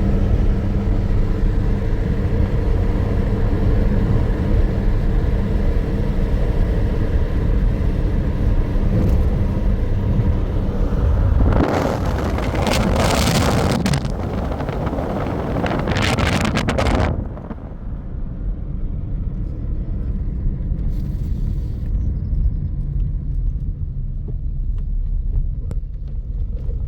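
A motor vehicle running with a steady low rumble. A loud hissing rush comes in about twelve seconds in and lasts some five seconds, then the rumble carries on more quietly.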